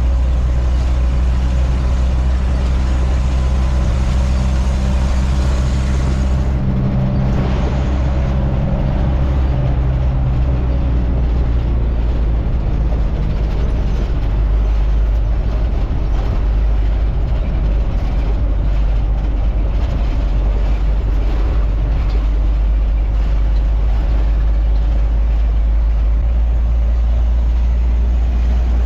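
A truck driving along the road, with a steady low engine drone and road noise. A clear engine note is heard for about the first ten seconds, then blurs into an even rumble.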